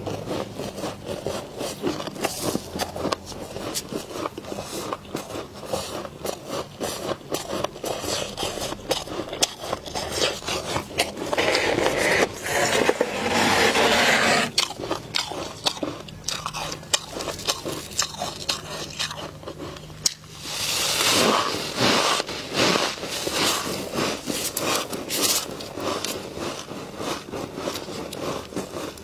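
Humidifier-grown frost in a freezer being scraped and crunched: a dense run of small crackling clicks, with two longer, louder scrapes, one about a third of the way through and one about two-thirds through.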